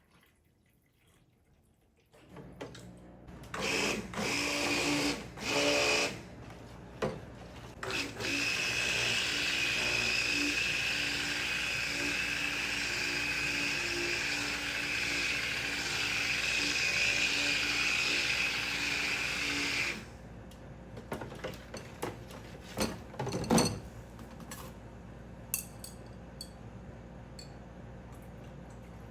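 Electric mixer running in the soap mixture: two short bursts, then a steady whirring run of about twelve seconds that cuts off suddenly. A low steady hum starts about two seconds in and continues underneath, and a few light clicks and taps follow near the end.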